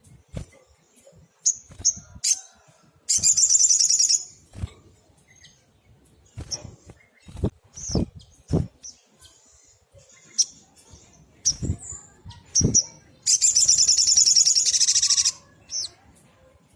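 A sogok ontong, a small songbird, calling: short sharp high chirps scattered through, broken twice by a rapid buzzing trill, one about a second long and a louder one about two seconds long near the end. A few soft low thumps fall between the calls.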